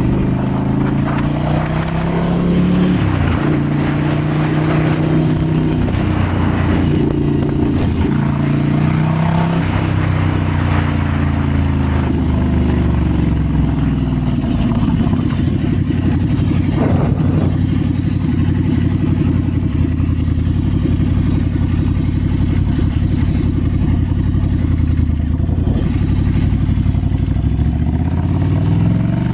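Ducati Scrambler's L-twin engine on a ride. Its pitch rises and falls with throttle and gear changes in the first half, then climbs and holds steady at higher revs before dropping near the end.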